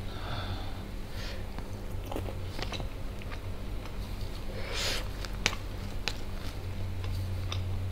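Close-miked chewing of a mouthful of biryani rice, with scattered wet mouth clicks and a short breath through the nose about five seconds in. A steady low hum runs underneath.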